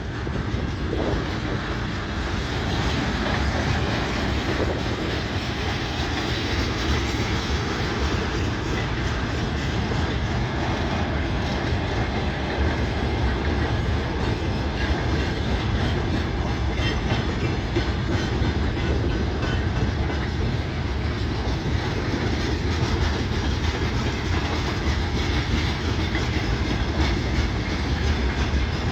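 A train running by on the rails: a steady, unbroken rumble of wheels and cars at an even level.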